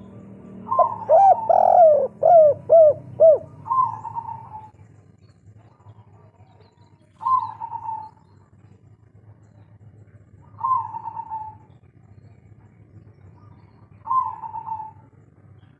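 Spotted dove (tekukur) singing its 'kuk 3' song: a loud run of quick, arched coo notes between about one and three seconds in, then single short coos repeated about every three and a half seconds.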